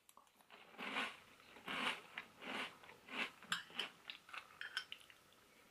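A mouthful of Kellogg's All-Bran Multi-Grain Crunch, an O-shaped cereal soaked in milk, being chewed: soft crunching about once a second, then quicker small clicks near the end.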